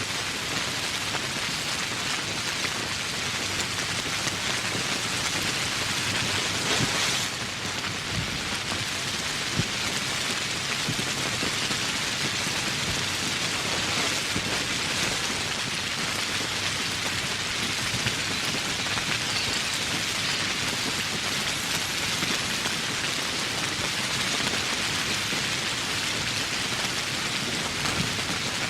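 Steady tropical rain falling, a dense even hiss of drops that swells briefly about seven seconds in.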